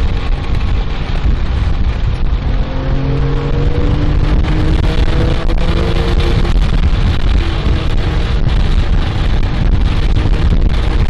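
Porsche 997 GT3's flat-six engine under hard acceleration, heard from inside the cabin. The engine note climbs in pitch for a few seconds, then drops as it shifts up about two-thirds of the way through and starts climbing again. Heavy road and wind rumble runs underneath.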